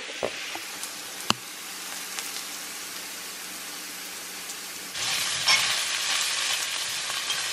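Sliced potatoes, onions and green peppers sizzling as they fry in a stainless steel skillet, with a single sharp click about a second in. The sizzle gets louder about five seconds in, as the vegetables are stirred with a spatula.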